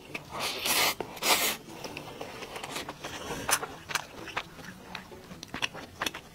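Close-miked eating: a mouthful of rice chewed with wet mouth clicks and smacks, irregular throughout. Two short hissing rushes, like sucked-in breath, come in the first second and a half.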